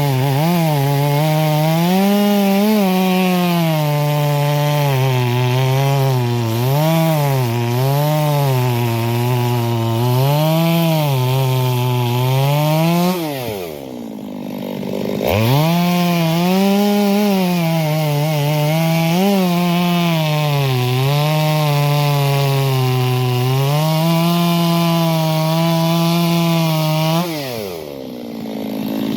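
Stihl MS 250 two-stroke chainsaw cutting wood, its engine pitch wavering up and down under load. About 13 seconds in the engine falls back briefly and revs up again, and it does so once more near the end.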